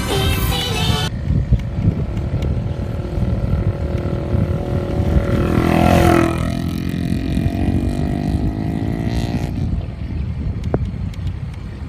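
A motor vehicle's engine passing close by: its pitch drops as it slows, then climbs again as it speeds up, and it fades out about two thirds of the way through. Heavy wind rumble on the microphone runs under it.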